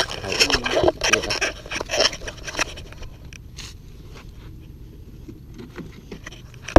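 Hand tools scraping and knocking against metal car parts, with a quick run of sharp knocks and clicks in the first few seconds, then quieter scraping, and one sharp click at the end.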